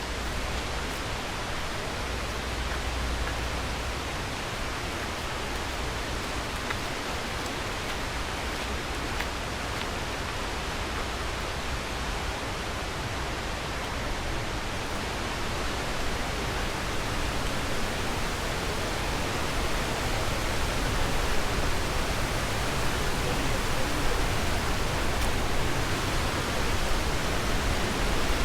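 Mountain waterfall pouring: a steady rush of falling water, growing somewhat louder over the last several seconds.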